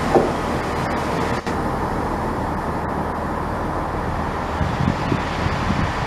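A train running past: a steady rumble and rushing noise.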